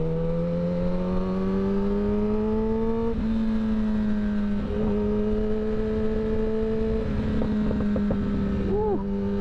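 Kawasaki Ninja ZX10R's inline-four engine with an M4 slip-on exhaust, rising steadily in revs under acceleration. About three seconds in it drops in pitch as it shifts up a gear, then holds a fairly steady cruise, with a short rise and fall near the end.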